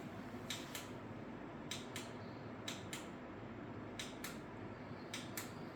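Reset button on a PC case clicked down and up five times, about once a second, stepping through the ARGB fan lighting modes, over a faint steady background noise.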